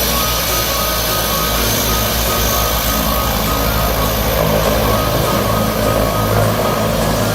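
An engine running steadily under a constant rushing noise.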